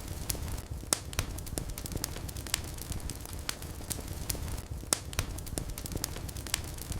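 Wood fire burning in a fireplace, with a low steady rumble of flames and frequent irregular sharp crackles and pops.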